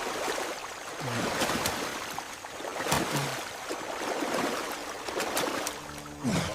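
Water running and trickling through a leaking crack in a rusted ship's hull, with three short low sounds that fall in pitch.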